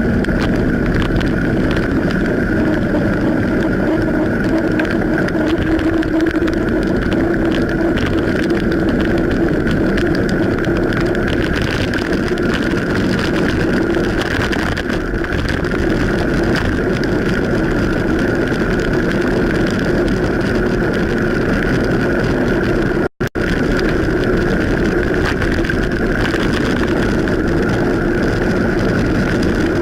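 Steady riding noise from a bicycle on wet streets in the rain: wind and tyre noise with a constant hum running through it. It cuts out for a moment about three-quarters of the way through.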